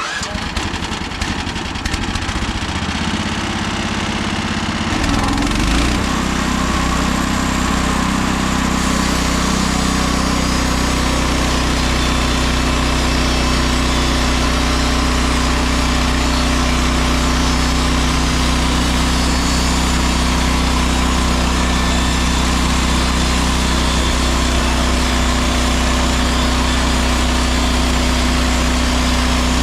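Gasoline engine of a Mechmaxx SM32 sawmill running steadily. It picks up and runs louder about five seconds in.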